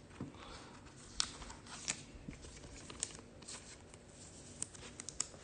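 Quiet handling noise: scattered light clicks and taps at irregular intervals, with faint rustling.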